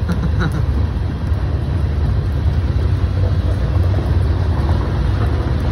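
Freight train cars rolling past on the rails: a steady low rumble with no break.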